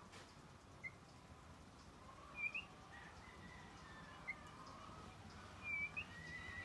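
Songbirds calling faintly in the tree: two sharp, hooked chirps about two and a half and six seconds in, with a few fainter short notes and thin drawn-out whistles behind them.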